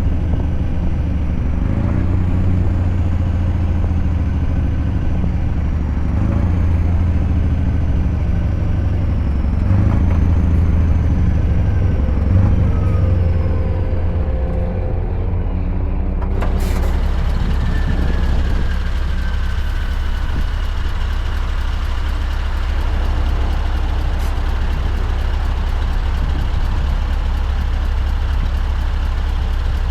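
Scania V8 truck engine running steadily. About halfway through, a sudden sharp sound, and the engine settles to a steady, lower running note like an idle.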